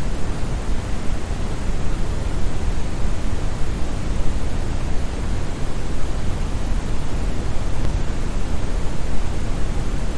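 Brown noise: steady, even synthetic noise, deep and bass-heavy with little treble, like a muffled waterfall.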